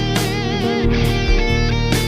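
SQOE SETL650 HH electric guitar, a Tele-style guitar with two Alnico humbuckers, playing a lead line: held notes with wide vibrato and string bends, and new notes picked near the start and end.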